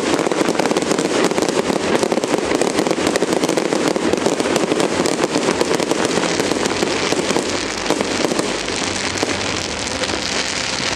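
New Year's fireworks display going off in a dense, continuous crackle of many small bangs, thinning a little near the end.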